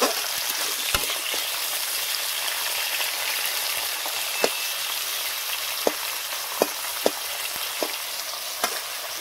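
Thin potato slices sizzling in hot oil in a metal kadai: a steady frying hiss, with a metal spatula tapping and scraping the pan several times as they are stirred.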